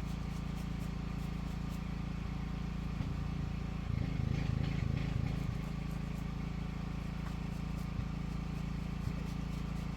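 An engine running steadily, with a louder, rougher stretch for about a second and a half near the middle.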